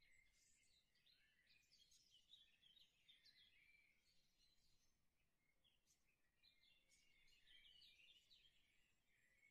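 Near silence, with faint, continuous chirping of songbirds.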